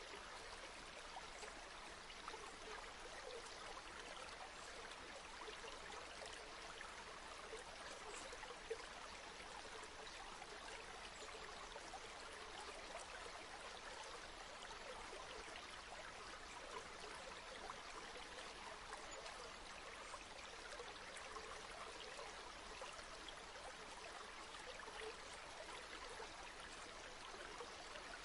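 River water flowing steadily over stones, a continuous babbling and trickling rush with a small splash-like click about nine seconds in.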